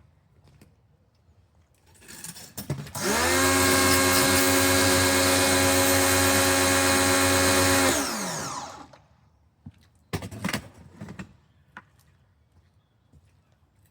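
Pro-Kleen 1600 pressure washer's motor and pump starting up, running steadily for about five seconds, then winding down as it stops. A few clicks and knocks come before and after.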